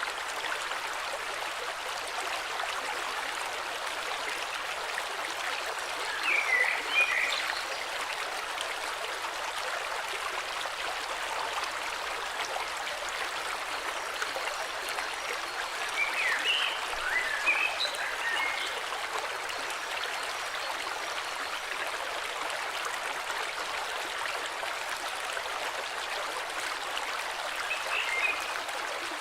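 Flowing river, a steady rush of water. Short phrases of birdsong come over it about a quarter of the way in, again a little past halfway, and once more near the end.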